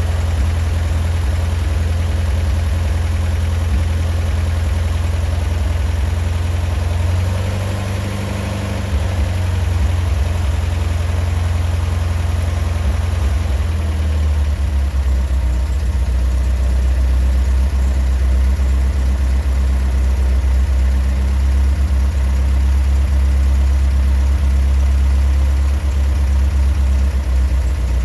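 Datsun Bluebird 411's four-cylinder J-type engine idling on an MGB intake manifold and a knockoff Weber carburettor. The idle speed dips and recovers about a quarter of the way in, then settles into a steady idle.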